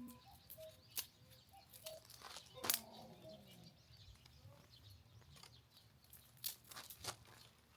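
Dry twigs snapping and crackling as they are broken and handled by hand: a few sharp snaps, the loudest about three seconds in, with faint bird chirps in the background.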